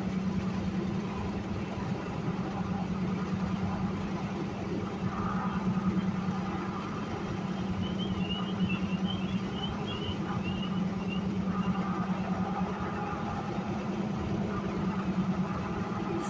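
A car on the move: a steady low engine hum and road noise. A short run of faint high chirps comes about eight seconds in.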